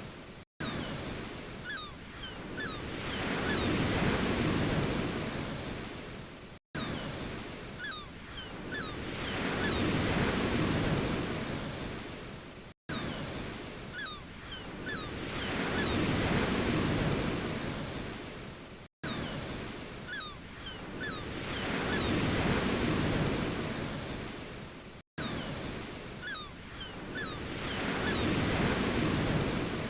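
Ocean waves washing ashore, each wave swelling and fading over about six seconds, with the same wave repeating five times and a brief dropout to silence between repeats.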